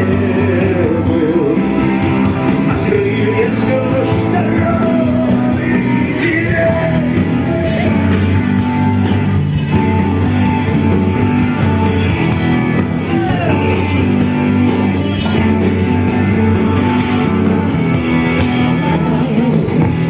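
Live rock band playing the instrumental close of a song: steady bass and chords under a lead line that bends in pitch.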